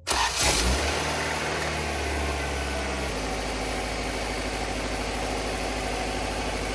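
Honda Accord four-cylinder engine catching right at the start, then running at a steady idle whose low note drops and settles about three seconds in.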